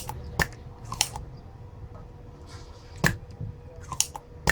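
A handful of sharp, irregularly spaced clicks and snips from hand tools and parts being handled, some in quick pairs, over a faint steady hum.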